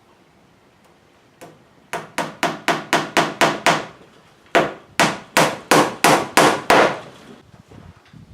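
Hammer driving nails into a wooden 2x4: two quick runs of blows, about eight and then about seven, with a short pause between.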